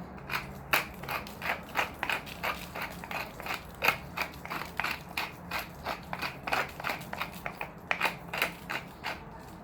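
Hand-twisted spice grinder being turned to season food: a rapid run of gritty grinding strokes, about three a second, stopping near the end.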